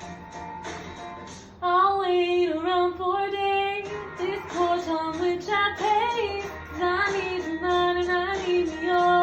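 Music: a plucked, strummed string accompaniment, joined about one and a half seconds in by a woman singing in long, held notes that glide between pitches.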